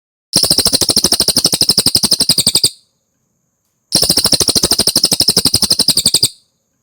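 Cililin songbird singing: two rapid trills of sharp repeated notes, each about two seconds long, with a pause of a little over a second between them.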